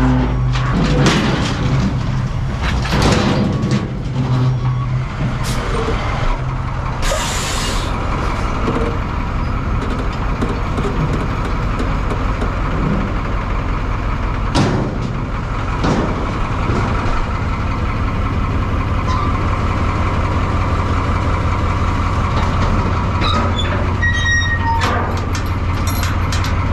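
Heavy diesel truck engine running steadily, with a short air hiss about seven seconds in and a few knocks and clanks. The engine note grows heavier and more even in the second half.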